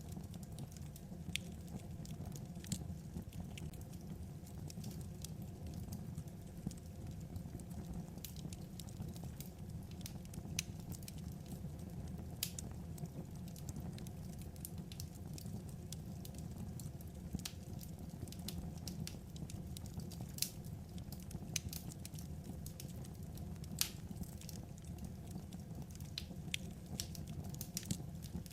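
Wood fire crackling: a low, steady rumble of flames with irregular sharp pops and snaps.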